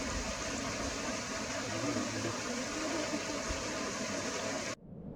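Steady rush of flowing water from a mountain stream, cutting off abruptly near the end.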